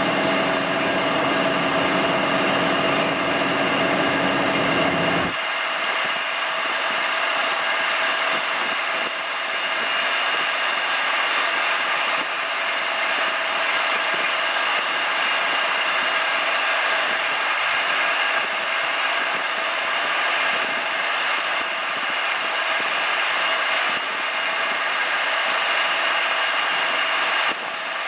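1993 Hurco KM3-P CNC knee mill running a program, a steady machine whine of several tones over a hiss. About five seconds in, a lower hum cuts off suddenly and the higher tones carry on.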